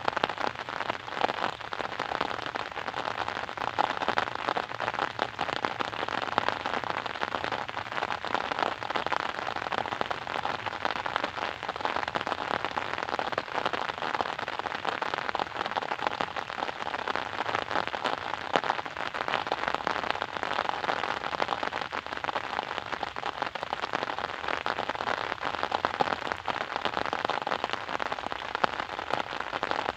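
Steady rain falling, an even hiss thick with many small drop impacts.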